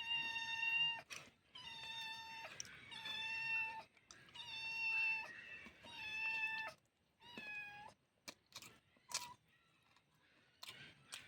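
A cat meowing over and over: six steady, even-pitched meows of about a second each, then a few faint knocks near the end.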